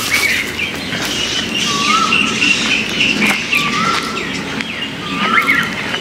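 Birds calling: one repeats a short, rising whistled note about every second and a half, three times, over higher chirping from other birds.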